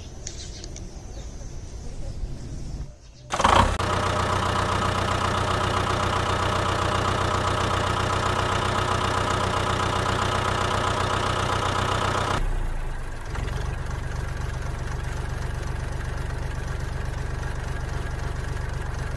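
A machine running steadily, starting suddenly about three seconds in; about twelve seconds in it changes to a lower, rougher running sound.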